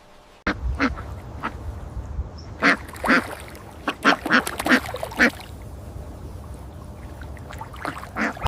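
Ducks quacking: a run of short, separate quacks, coming thickest in the middle, with a couple more near the end, over a low steady rumble.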